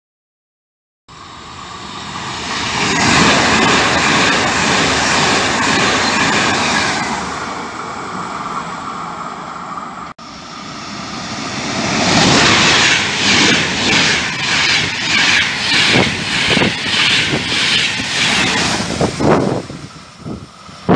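Electric trains passing through a station at speed: a loud rush of wheel and air noise swells and fades, then after a cut a second train goes by with a regular clatter as its wheelsets pass.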